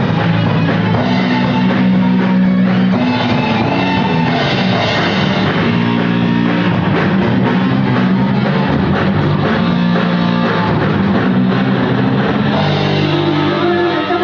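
A rock band playing, with guitar, bass notes and a drum kit keeping a steady beat.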